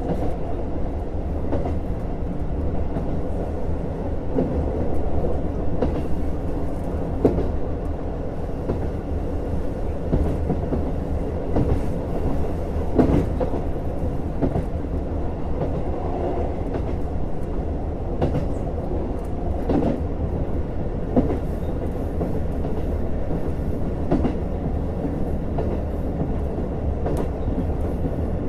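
A JR Hokkaido KiHa 150 diesel railcar running along the line: a steady hum of engine and wheels, with the wheels knocking over rail joints every few seconds, often as pairs of knocks.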